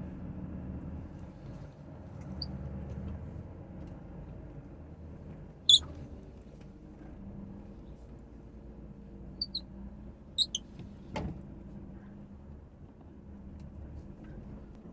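Heavy truck diesel engine running low and steady. Several short, high-pitched squeaks come over it, the loudest about six seconds in, and there is a sharp click about eleven seconds in.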